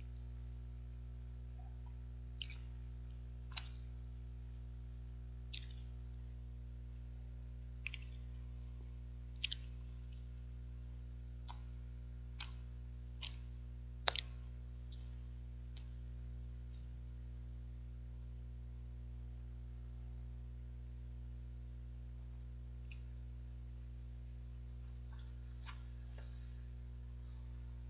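Wet mouth clicks and lip smacks from chewing soft steamed rice cake (baekseolgi): about a dozen sharp little clicks in the first half, then a few fainter ones near the end, over a steady low hum.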